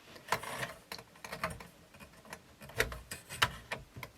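Irregular light clicks and taps of hands working inside a cassette deck's tape mechanism, about a dozen in all and unevenly spaced.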